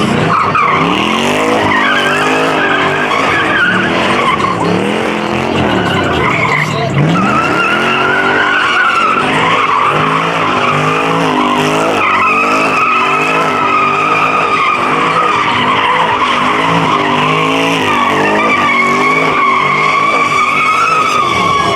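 A car spinning its tyres at high revs: the engine revs rise and fall over and over while the tyres squeal without a break.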